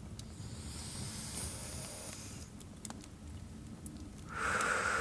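A deep breath taken close to the microphone: a long airy inhale through the nose for about two seconds, then, after a pause, a slow audible exhale through the mouth beginning near the end. Soft crackles from a fireplace tick in the background.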